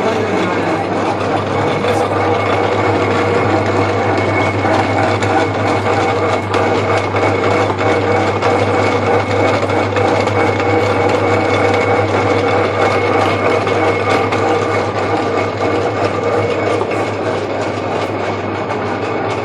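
Lathe running steadily: a constant machine hum with a steady whine and a fine rattle.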